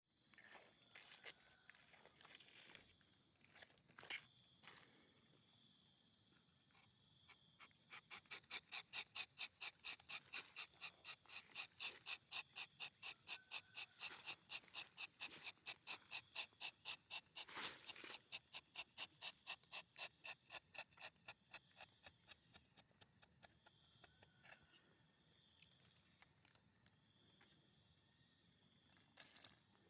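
Steady high-pitched insect buzz, with a long run of rhythmic pulses at about three a second through the middle, and a few sharp clicks.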